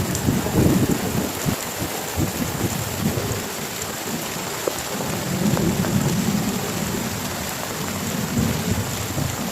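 Heavy rain falling steadily, with low rolling rumbles of thunder that swell near the start and again about halfway through.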